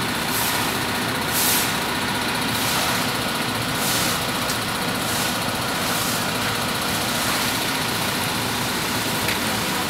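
A heavy vehicle engine idling steadily, with brief hisses in the high register every second or so.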